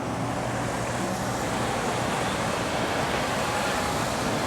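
A steady rushing, hissing noise that swells up just before and holds level, from an interactive exhibit effect set off by a push button.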